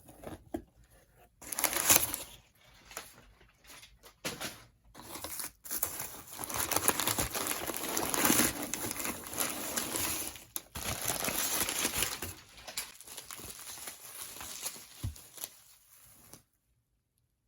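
Plastic packaging being crinkled and torn open by hand, in irregular rustling bursts that stop abruptly near the end.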